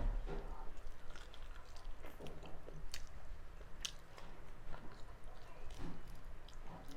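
A person chewing a mouthful of food, with scattered wet mouth clicks and smacks.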